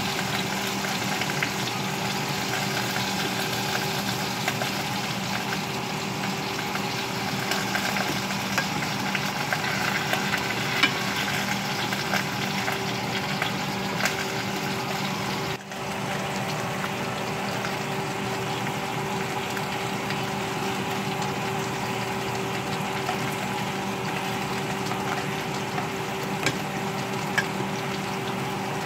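Sliced potatoes and sweet potatoes sizzling and crackling as they pan-fry in olive oil in a skillet, over a faint steady hum. A few sharp clicks of metal tongs turning the slices.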